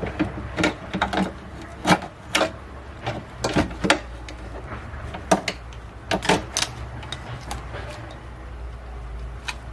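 Irregular sharp clicks and knocks of hand-tool work, coming in clusters, over a steady low hum.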